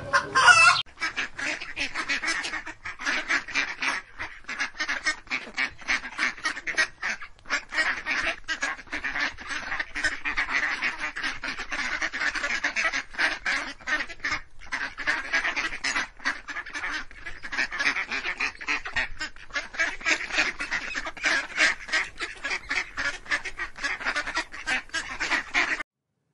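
A flock of birds calling continuously, with many rapid, overlapping calls that cut off abruptly near the end.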